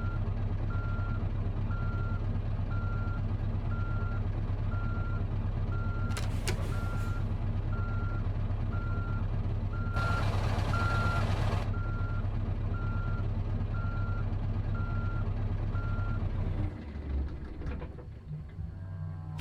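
A truck's reversing alarm beeping steadily, about one and a half beeps a second, over the diesel engine running. About ten seconds in there is a hiss of about two seconds. Near the end the beeping stops and the engine sound drops.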